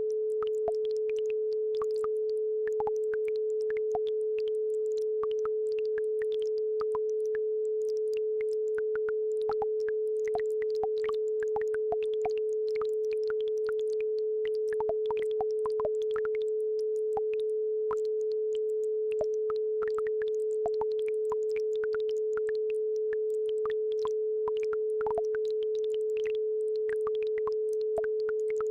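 A steady pure tone at 432 Hz, the base frequency of a brainwave-entrainment track, held at an even level. Faint scattered ticks and trickles of babbling brook water sit beneath it.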